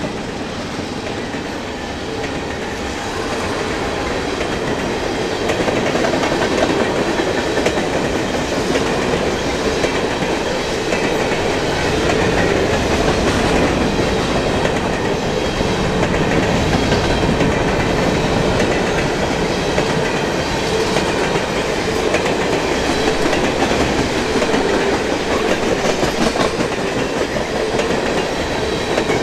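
A long freight train of tank cars and hopper cars rolling past close by, its steel wheels rumbling and clicking over the rail joints in a steady stream. It grows louder a few seconds in and then holds steady.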